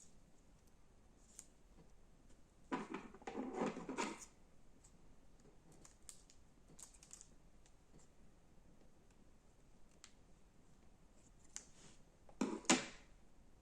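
Slime being handled close to the microphone: scattered small clicks and crackles, with a louder crackly burst of about a second and a half some three seconds in and a shorter one near the end.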